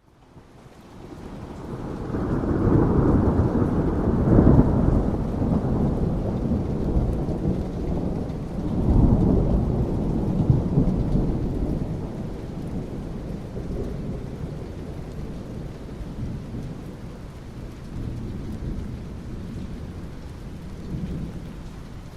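Thunder rumbling over steady rain. The rumble builds up over the first couple of seconds, swells a second time about nine seconds in, then slowly dies away into the rain's even hiss.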